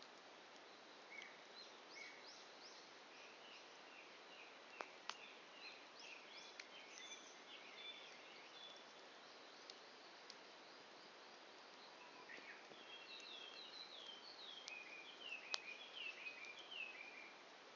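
Quiet outdoor ambience of small birds chirping in two runs of quick, short falling notes, with a few sharp pops from a wood campfire, the loudest near the end.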